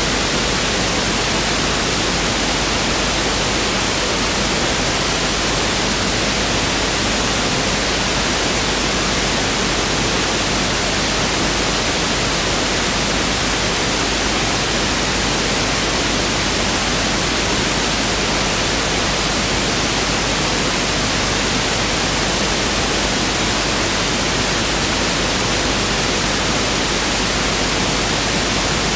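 Pink noise (1/f) test signal: a steady, even hiss spread across the whole audible range.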